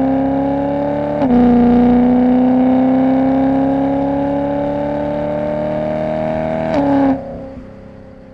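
BMW E90 M3's S65 V8 with an aftermarket exhaust pulling steadily, its pitch climbing slowly and dropping sharply twice, about a second in and near the seventh second, as it shifts up. Just after the second shift the throttle closes and the engine sound falls away and fades.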